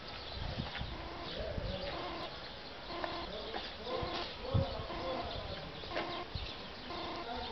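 Birds calling in short notes repeated about twice a second, with dove-like cooing, over a few low thumps; the strongest thump comes a little past the middle.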